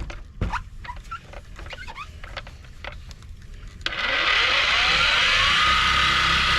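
Small clicks and squeaks of handling, then about four seconds in a power tool's electric motor switches on, its whine rising for about a second and a half and settling into a steady high-pitched run with a hiss.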